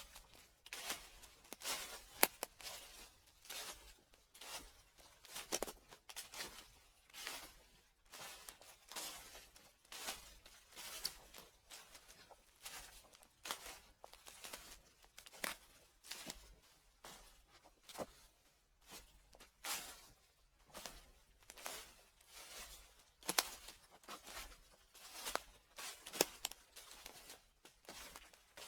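Footsteps crunching through dry fallen leaves at a steady walking pace, about one step a second, each step a crisp crackle of leaves.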